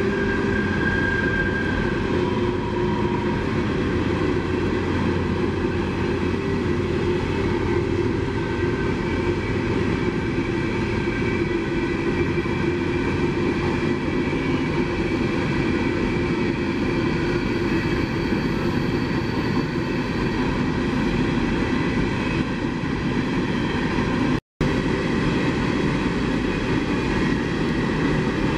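CSX coal train rolling by: a steady rumble and clatter of steel wheels on the rails, with faint high tones over it. The sound cuts out for a split second about 24 seconds in.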